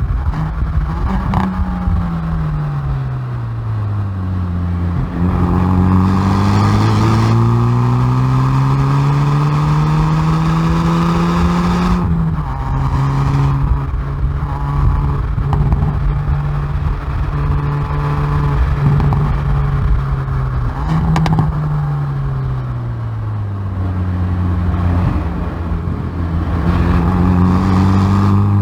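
Hyundai i30N Performance's turbocharged 2.0-litre four-cylinder engine and exhaust, heard from the rear bumper, driven hard on track. Engine pitch falls as it slows, climbs in a long pull to a sudden upshift near the middle, holds, falls again, then climbs once more near the end.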